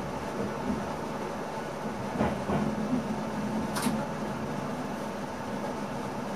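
Steady running noise inside the driver's cab of an NS ICM (Koploper) electric train under way, with a low hum. A knock comes about two seconds in and a sharp click just under two seconds later.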